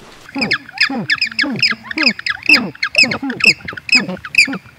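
Several birds giving short squawking calls that fall steeply in pitch, about three or four a second and overlapping each other without a break.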